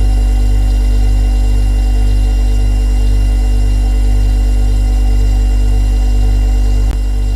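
Refrigerator compressor running with a loud, steady low hum and faint steady whine above it, with a brief click near the end after which the hum is slightly quieter.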